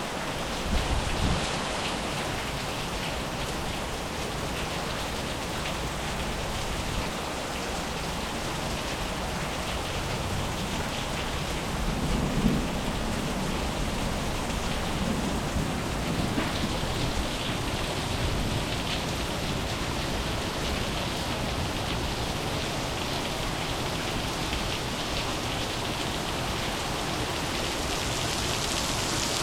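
Heavy monsoon rain falling and pattering on surfaces, steady throughout, with a low rumble of thunder swelling up about twelve seconds in and a fainter one a few seconds later.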